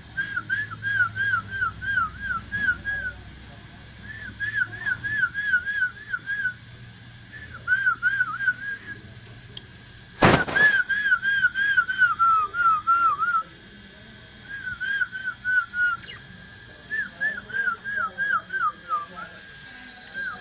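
Pet lovebirds chirping in quick runs of short, falling notes, several a second, broken by pauses of a second or two. A sharp knock about ten seconds in.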